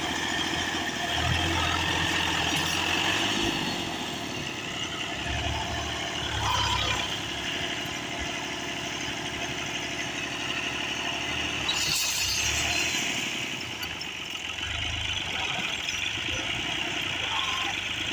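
Tractor's diesel engine running under load, its low rumble swelling several times as it is revved to drive the wheels free of mud.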